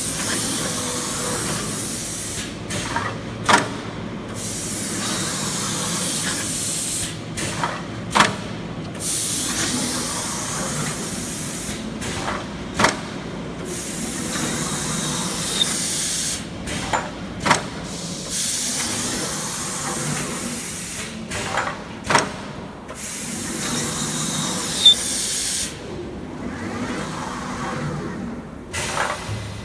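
CNC V-groover for sheet metal running repeated grooving passes: a high hissing scrape lasting a few seconds per pass, six times over, with sharp clicks and knocks between passes as the heads reverse.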